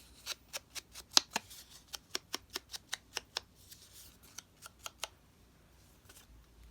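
Scissors snipping paper: a run of quick, sharp snips, about four or five a second, stopping about five seconds in.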